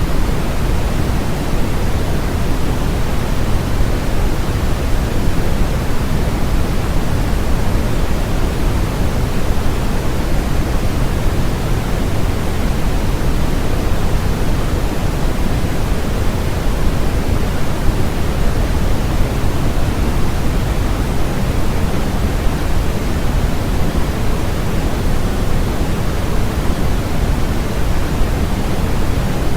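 Steady synthetic noise made for sleep and focus, sold as white noise: a constant, even rushing hiss with no changes, its weight in the low end rather than the highs, closer to pink noise than flat white noise.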